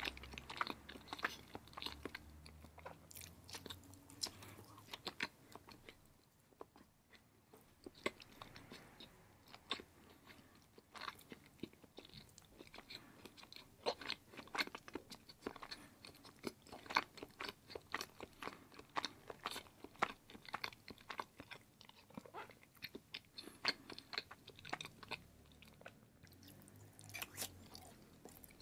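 A person chewing firm block cheese (cheddar and colby-jack) with many short, sharp mouth clicks and smacks, with a quieter lull about six to eight seconds in.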